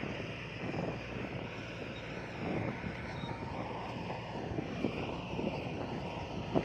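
Heavy diesel earthmoving machinery running steadily under load, with a few short metallic clanks.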